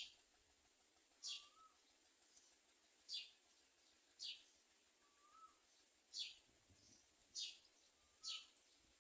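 A bird repeating a short, high call that sweeps downward, about once a second, with a fainter, lower warbled note after some of the calls.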